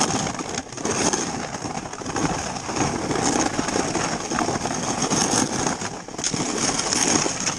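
Skis sliding over snow on a downhill run: a steady rushing, scraping hiss that swells and dips.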